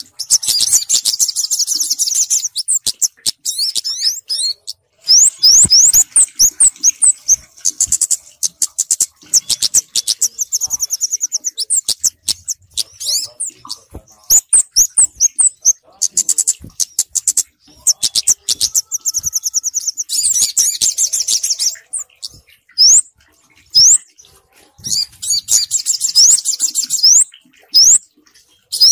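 Bird-lure recording of small songbirds, kemade and sogok ontong, calling: rapid high-pitched chirps and fast trills in repeated bursts separated by brief gaps.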